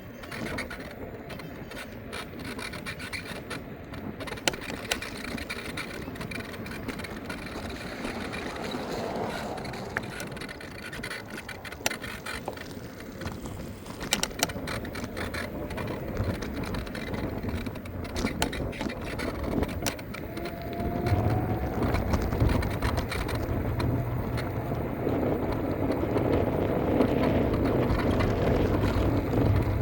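Electric scooter on the move: steady tyre and road noise with scattered rattles and knocks over bumps, growing louder in the second half.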